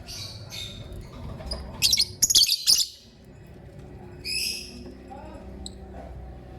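Lovebird chirping: short, high chirps, with a loud rapid run of chirps about two seconds in and another chirp about four seconds in.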